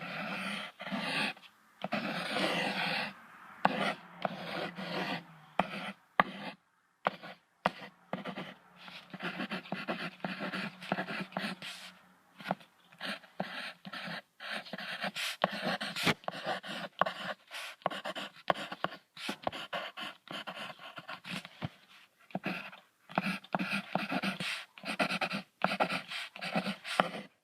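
Goats making a run of short, rough, breathy sounds, one after another.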